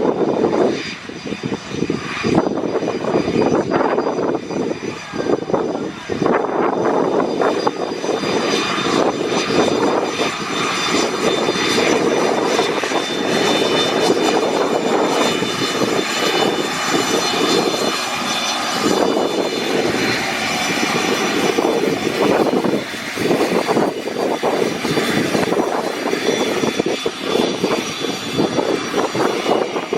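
Twin turbofan engines of a Cessna Citation CJ3 business jet running loud and close, a steady jet whine with several high tones over a broad rushing noise that wavers in loudness.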